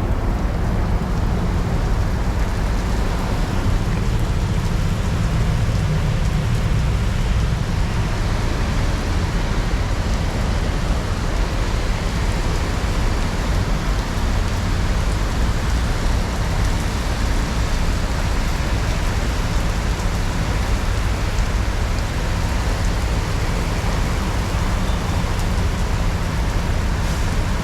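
Heavy rain and wind noise with the low steady drone of a two-stroke Honda Dio scooter running underneath during a ride.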